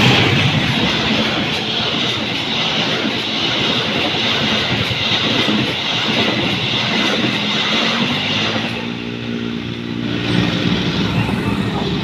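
An Indonesian railways (KAI) train rolling past, a steady noise of wheels on the rails that thins out about eight or nine seconds in, when a low engine hum with a steady pitch comes to the fore.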